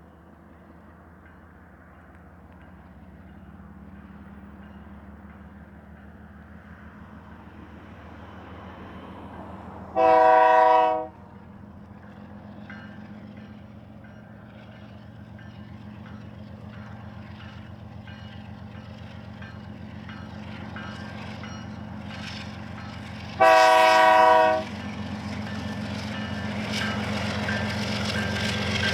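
BNSF diesel freight locomotives approaching, their engine drone growing steadily louder. The multi-chime air horn sounds two short blasts, about 10 s in and about 23 s in, each lasting about a second. Wheel and rail clatter builds near the end.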